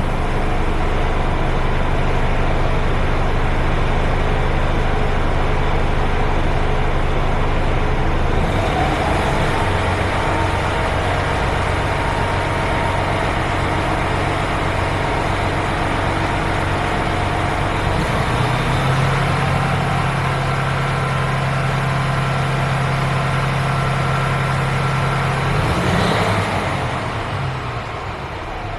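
Mercedes-Benz Actros 1840 tractor unit's straight-six diesel idling steadily just after start-up, its engine note shifting about 8 seconds in and again about 18 seconds in.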